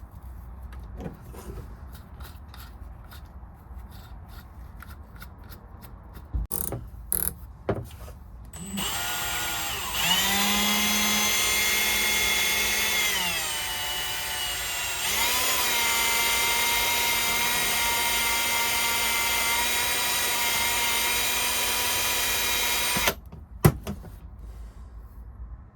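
An electric drill spins a polishing tool inside a brass gauge valve's tapered seat, a steady motor whine that slows under load partway through, speeds up again, then stops abruptly. Before it comes a few seconds of light handling clicks, and a sharp click follows after it stops.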